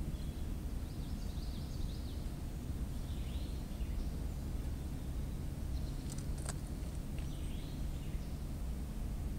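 Small birds chirping in several short phrases over a steady low rumble, with one sharp click about six and a half seconds in.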